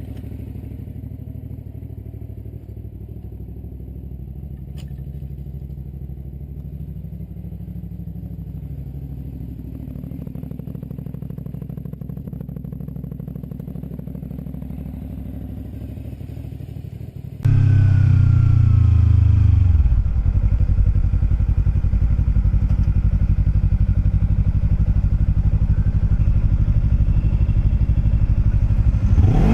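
Motorcycle engine running steadily while riding. About two-thirds of the way through, the sound cuts abruptly to a much louder motorcycle engine whose note falls off, then runs on steadily.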